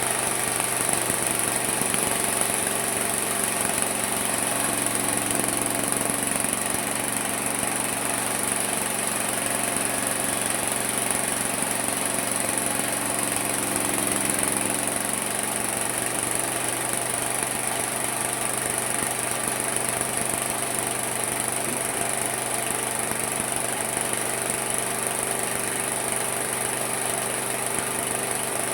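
Homemade mini sawmill running steadily, its motor holding an even pitch. An extra tone joins for about ten seconds in the first half, then drops away.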